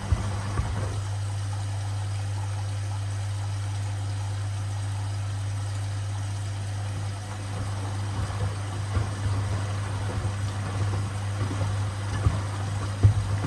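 Washing machine running with sneakers in the drum: a steady motor hum. From about eight seconds in, a rougher churning noise joins it, with scattered knocks, one louder near the end.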